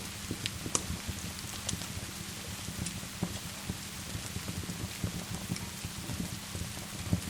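Steady rain hiss mixed with a wood fire burning in a fireplace, with scattered sharp crackles and pops from the fire every second or so.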